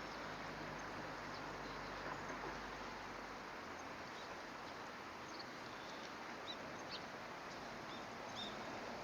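Steady outdoor background hiss with a few short, high bird chirps in the second half.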